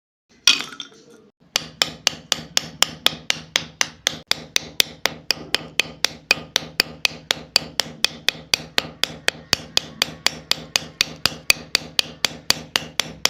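Hammer blows in a fast, even rhythm, about four sharp knocks a second, after a single knock about half a second in.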